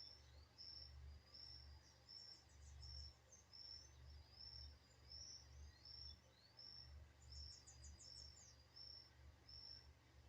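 Faint high-pitched chirps from small birds or insects: short notes repeating about twice a second, with rising slurred notes mixed in and two brief rapid trills. A low steady hum runs underneath.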